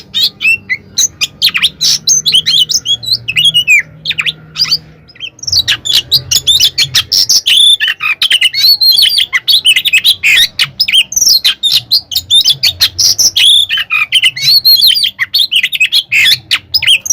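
Oriental magpie-robin (kacer) singing a fast, unbroken stream of chirps, whistles and trills in its aggressive fighting song, with a brief pause about five seconds in.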